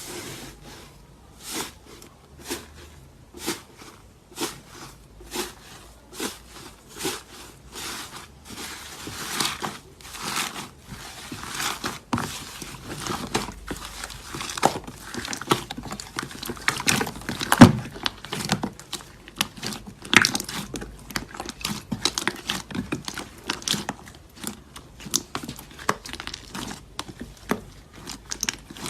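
Slime being pressed and squished by hand, making sharp crackling pops: separate pops about once a second at first, then thicker and faster crackling from about a third of the way in.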